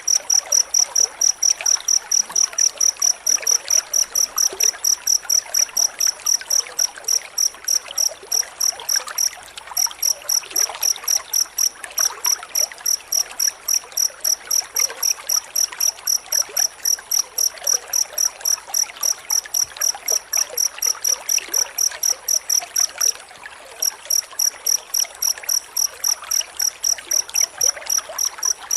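Cricket chirping in a fast, very regular train of high-pitched chirps, a few a second, with two short breaks. An even hiss runs underneath.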